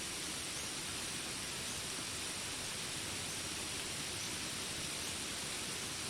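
Steady rain falling in a jungle: an even hiss with no breaks or single drops standing out.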